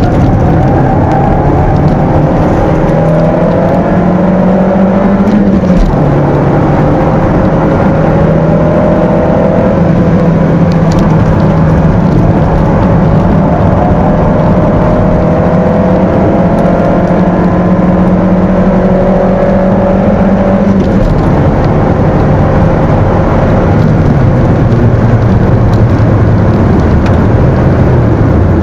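Stock 1.6-litre four-cylinder engine of a Peugeot 206, heard from inside the cabin, running hard at high revs. The pitch climbs slowly and drops sharply once about six seconds in, as at a gear change, holds high for a long stretch, then falls lower and wavers over the last several seconds as the car lifts off.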